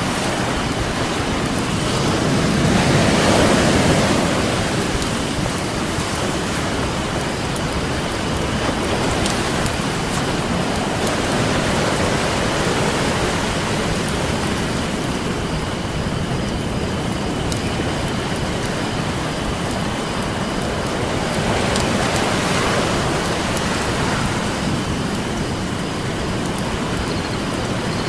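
Ocean waves washing onto a beach, swelling about 3 seconds in and again near 22 seconds, with a campfire crackling in small sharp pops.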